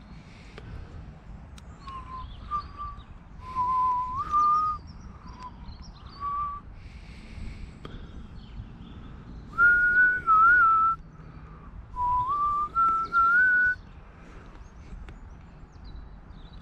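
A person whistling a slow tune in short phrases of held notes that step up in pitch.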